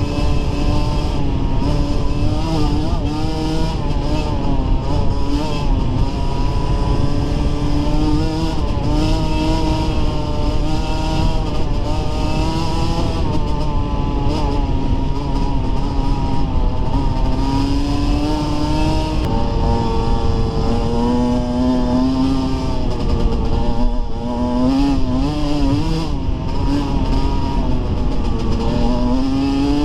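Dirt bike engine running under load as it is ridden along a trail, its pitch rising and falling repeatedly with the throttle and gear changes over a steady rough rumble.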